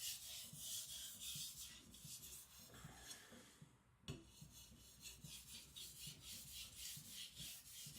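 Niolox steel nakiri blade stroked back and forth on a whetstone, a faint rhythmic rasping about three strokes a second, with a brief pause and a small knock near the middle. Light edge-polishing strokes with only the knife's own weight on the stone, the final polishing stage of the sharpening.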